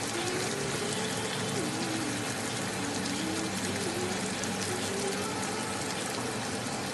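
Prawns and fish balls frying in sambal sauce in a pan, giving a steady sizzle.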